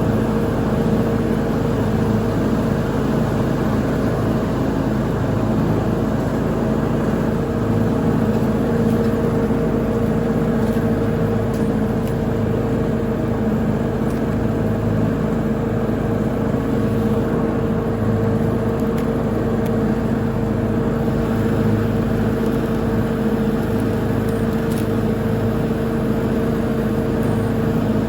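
Lawn mower engine running steadily while mowing, a constant drone with no change in speed.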